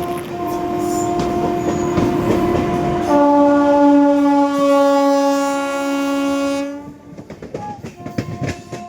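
Express train running on the rails, then a single long train horn blast of about three and a half seconds starting around three seconds in. After the horn stops, the rumble fades to scattered wheel clicks.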